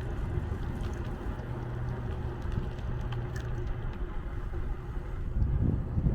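Low wind rumble on the microphone mixed with road and traffic noise while riding a bicycle, with a steady low hum that fades out about four seconds in.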